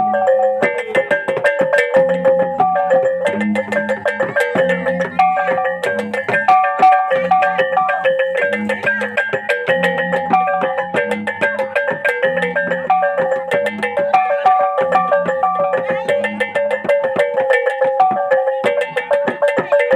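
Traditional Sasak gamelan music playing: pitched metal mallet notes in a repeating melody over a steady low drum-like pulse, with rapid cymbal-like clicks throughout.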